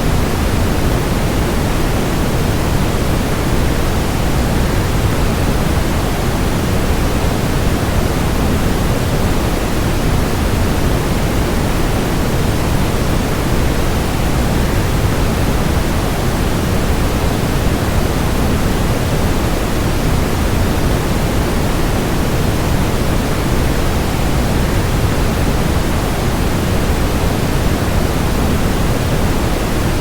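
Waterfall rushing in a steady, unchanging wash of noise, heaviest and deepest in the low end.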